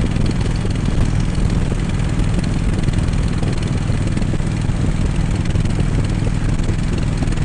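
Harley-Davidson Road King's V-twin engine running steadily while cruising, with no revving or gear changes.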